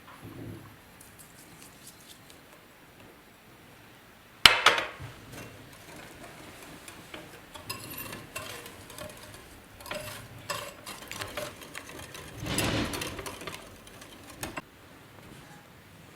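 Kitchen utensils and dishes being handled: a sharp clink about four seconds in, then scattered lighter clinks and scraping, with a longer, louder scrape a little before the end.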